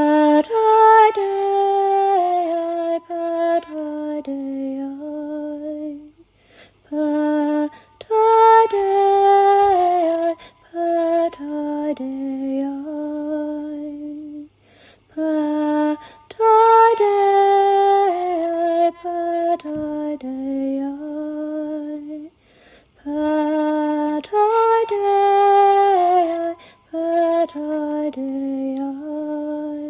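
A woman's unaccompanied voice singing slow, sustained, chant-like phrases, four in all, each ending in a short pause before the next begins.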